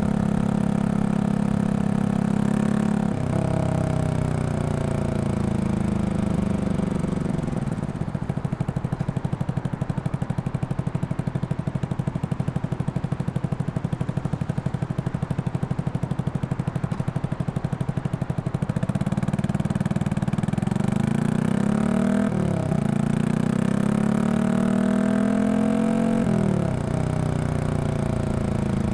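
Yamaha XSR155 single-cylinder engine, bored up to 183cc, through a Norifumi full exhaust. The revs fall off and the engine drops to a pulsing idle for about ten seconds. It then revs up again and pulls away, with the pitch dropping at two upshifts.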